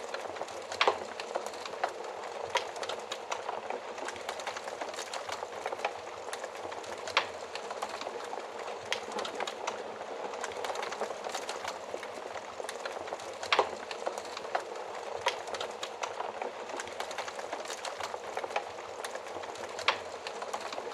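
Wood fire burning in an oven: a steady hiss of flames with constant fine crackling and a few louder sharp pops.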